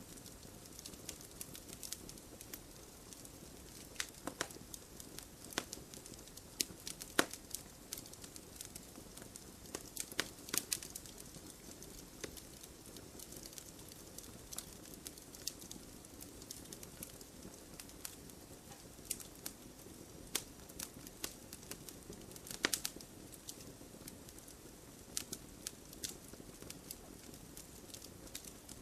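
Wood fire burning in a fireplace: a soft steady hiss with irregular sharp crackles and pops, a few louder snaps among them.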